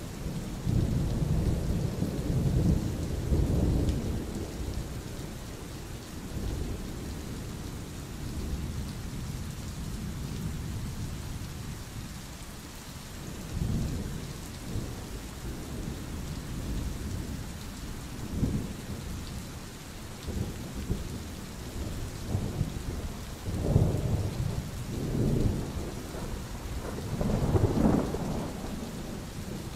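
Steady rain with rolling thunder: low rumbles swell and fade over and over, loudest in the first few seconds and in a run of peals in the last several seconds.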